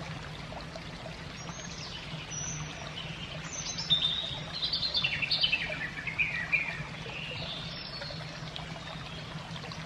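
A songbird singing a run of chirps and trills, loudest in the middle and often falling in pitch, over a steady trickle of running water.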